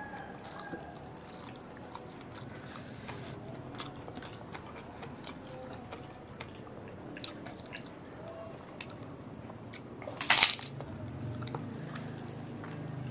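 People eating with their hands: chewing with small wet clicks and mouth smacks throughout, and a short loud crunch about ten seconds in.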